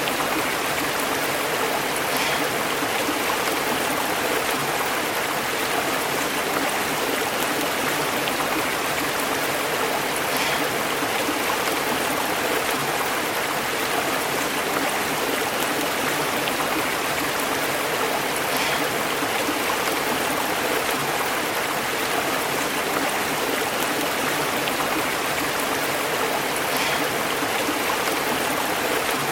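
Stream burbling steadily over rocks: an even, unbroken rush of flowing water.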